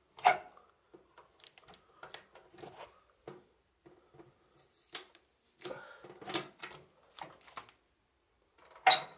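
Irregular clicks, taps and knocks from handling the microwave oven and its power cable, with the loudest knock near the end.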